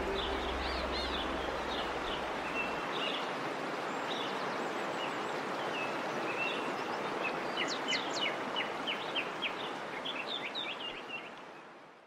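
Small birds chirping and singing over a steady rushing noise, with a quick run of repeated notes about eight seconds in. The last of a held music tone and bass dies away in the first few seconds, and everything fades out near the end.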